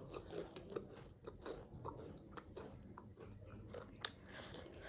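A person chewing a mouthful of chatpate, a crunchy puffed-rice snack, close to the microphone: a run of small crisp crunches.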